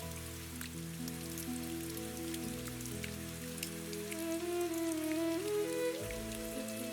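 Steady rain with fine drops pattering, mixed with soft ambient music of long held notes; a few higher notes join about halfway through.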